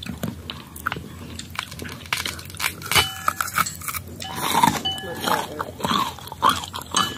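Crunching and chewing close to the microphone: a mouthful of firm, unripe green mango bitten and chewed, with many short crisp crackles.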